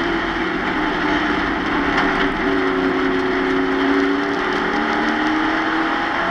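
Pro Truck stock-car race engine heard from inside the truck's cab at speed: a loud, steady engine note over wind and road hiss. The pitch drops a little just after two seconds in, then climbs slowly as the truck pulls.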